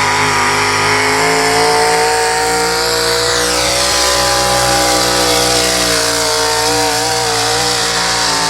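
Pulling tractor's engine running at full throttle as it drags the sled down the track, a steady, loud drone. A high whistle sweeps down in pitch about three seconds in.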